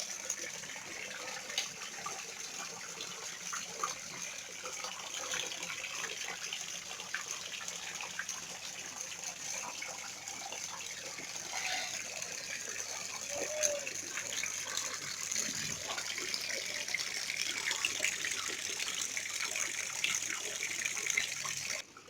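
Water from a small electric decorative waterfall fountain falling and splashing steadily, cutting off abruptly near the end.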